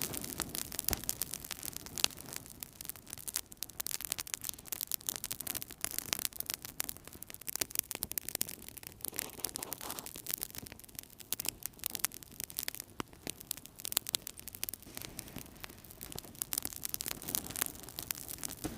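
Wood fire burning in a fireplace, crackling steadily with many small irregular pops and a soft hiss, and one sharper pop about two seconds in.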